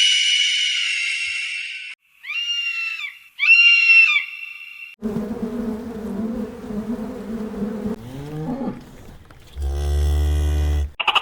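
A run of separate animal calls cut one after another: a long high call, two shorter high calls a second apart, then a low buzzing call that slides upward, and a low drone near the end.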